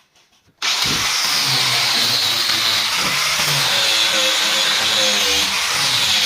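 A power tool starts abruptly about half a second in and runs steadily on wood, as in working a cricket bat during repair.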